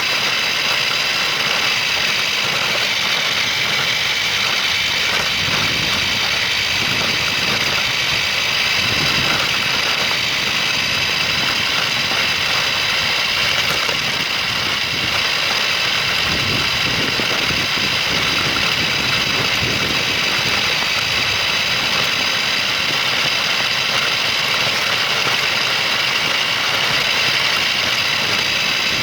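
Remote-control toy car's electric motor and gears whining steadily as it drives, picked up by a phone taped onto the car, with a rough rumble underneath.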